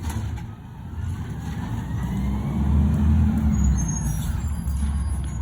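Garbage truck engine running, revving up and getting louder about two seconds in with a faint rising whine, then easing back.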